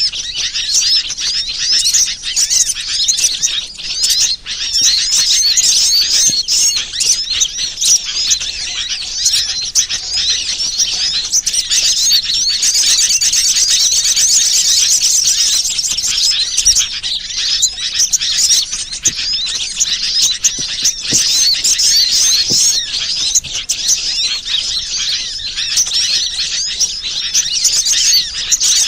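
Dense, unbroken high-pitched chirping and twittering of small birds: a bird-lure (pikat) call recording played to draw wild birds in.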